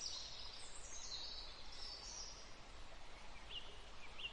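Birds chirping over a light breeze: a cluster of high chirps in the first two seconds, then two short rising chirps near the end, with a steady low rush of wind underneath.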